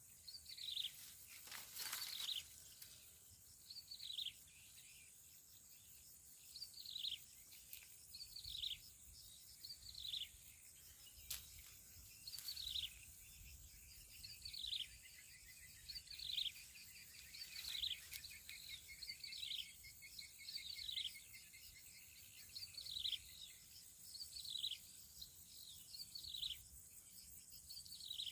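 A bird calling over and over in short notes that slide down in pitch, one or two about every second, over a steady high insect drone.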